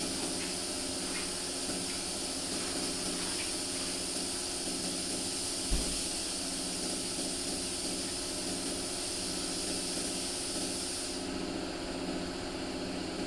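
Compressed air hissing steadily from an air tool over a constant machine hum; the hiss cuts off about two seconds before the end. One short low thump near the middle.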